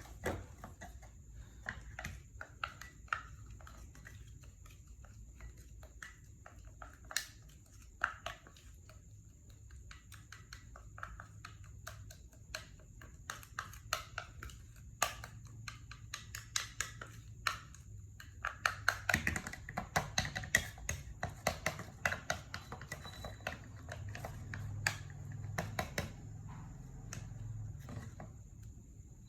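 Baby monkeys handling and eating food: scattered small clicks and taps, growing busier in the second half, with a few brief squeaks.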